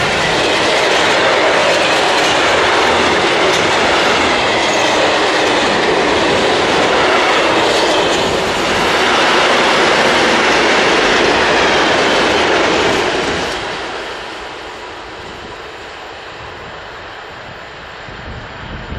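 Freight train of tank wagons rolling past at speed close by: a steady loud rumble and clatter of wheels on rail. The sound drops off about 13 seconds in as the end of the train goes by, then fades away.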